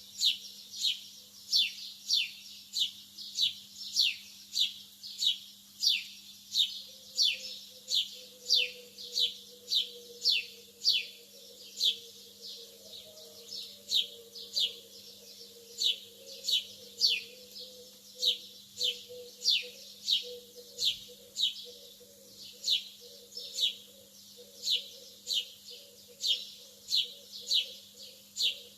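Lovebird giving a short, high chirp that falls in pitch, repeated over and over about every half second, over a faint steady low hum.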